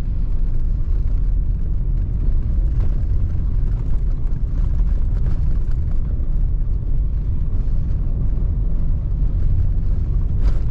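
A car's steady low rumble of engine and tyres while driving on a snow-covered gravel road, with one brief click near the end.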